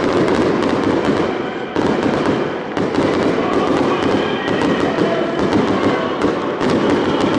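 Fireworks display going off in a dense, continuous run of crackles and bangs, many overlapping, with a brief lull just under two seconds in.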